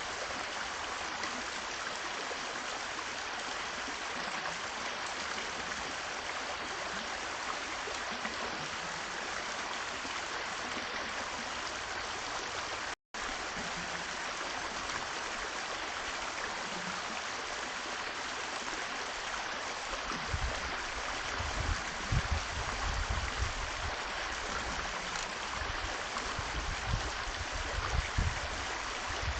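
Steady rushing noise with no clear pitch, like running water or wind in the open air. From about two-thirds of the way through, low gusts buffet the microphone.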